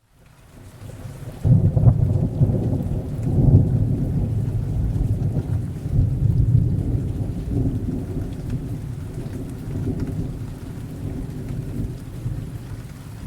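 Thunder rolling over steady rain: a low rumble breaks in about a second and a half in, swells twice and then slowly fades while the rain goes on.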